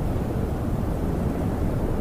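Snowstorm wind heard from inside a camper: a steady low rumbling rush.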